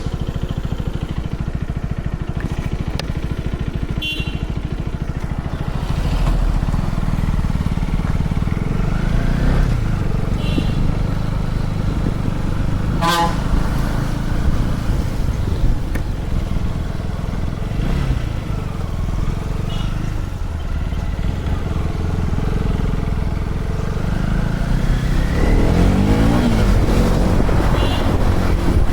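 KTM Duke 250's single-cylinder engine running steadily on the move, its pitch rising several times as the bike accelerates, most clearly near the end. A brief high toot sounds about halfway through.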